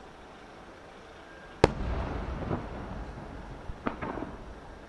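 Aerial fireworks bursting: one sharp, loud bang about a second and a half in, trailed by a rolling rumble, then a second, weaker cluster of bangs about four seconds in.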